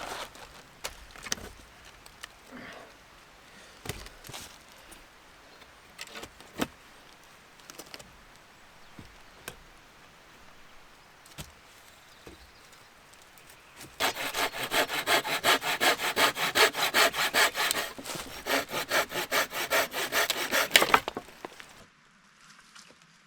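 Scattered light knocks and crackles of wood being handled, then a hand saw cutting through wood with fast, even back-and-forth strokes for about seven seconds, stopping shortly before the end.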